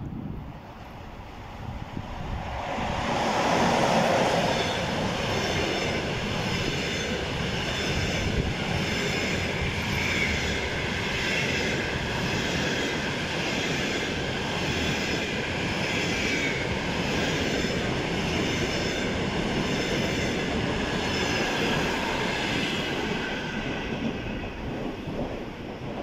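EP20 electric locomotive and its double-deck passenger train passing at speed. The rush builds to its loudest over the first four seconds as the locomotive goes by, then a steady rumble of wheels on rail with thin high tones runs on as the long string of double-deck carriages passes, easing off near the end.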